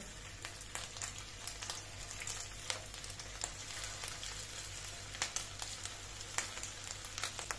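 Ground-meat köfte sizzling as they are laid one at a time into hot oil in a shallow pan: a steady frying hiss with scattered crackles and pops.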